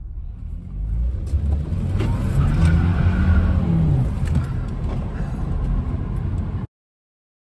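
Car engine accelerating, heard from inside the cabin, a low rumble with a note that climbs and then falls back in the middle. The sound cuts off suddenly near the end.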